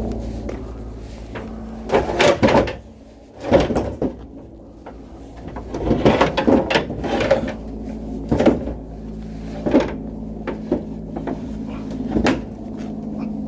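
Irregular knocks and clattering of objects being handled and set down, several in a cluster around the middle, over a steady low hum.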